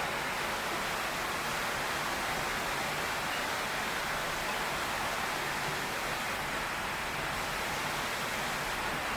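Heavy rain pouring steadily on a tin roof, an even hiss at a constant level.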